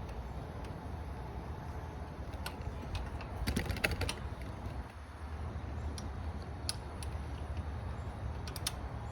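Scattered small clicks and clinks of hand tools working on motorcycle exhaust hardware, with a short quick run of clicks a little before halfway through, over a steady low hum.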